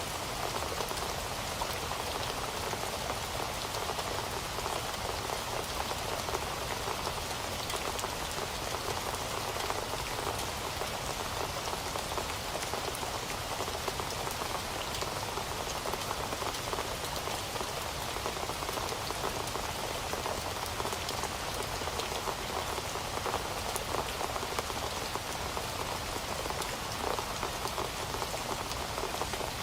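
Heavy rain falling steadily, a dense even hiss with close patter of drops on a surface.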